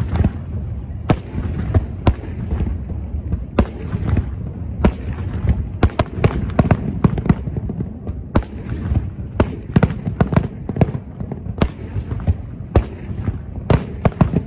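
Aerial fireworks display: a quick, irregular run of sharp bangs from bursting shells over a continuous low rumble.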